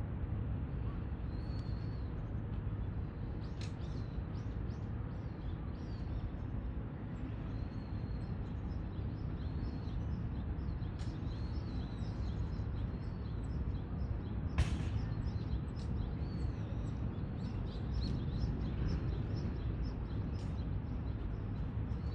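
Outdoor ambience: a steady low rumble with many brief, high, thin chirps of small birds scattered throughout, and one sharp click about two-thirds of the way through.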